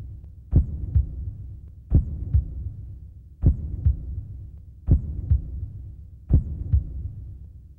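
Slow heartbeat sound effect: paired low thumps, the second one softer, repeating about every one and a half seconds over a steady low drone.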